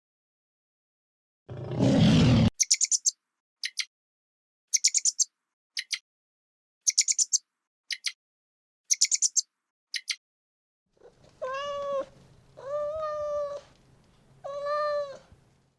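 A short rough burst, then quick high-pitched chirps in little groups about once a second, then a cat meowing three times.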